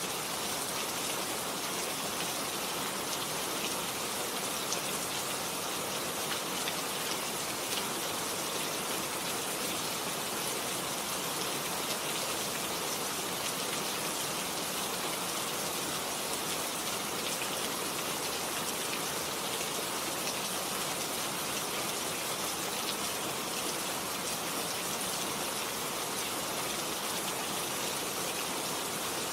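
Steady rain falling on a garden, an even hiss of drops with small taps of individual raindrops throughout.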